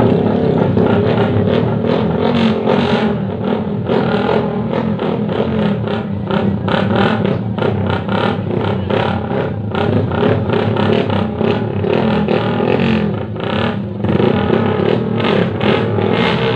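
Small underbone motorcycle engines running and revving in a slow drag race, the engine note wavering up and down, with a brief dip about thirteen seconds in.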